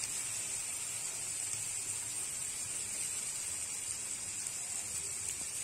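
A steady, faint hiss of masala sizzling gently in oil in a kadai.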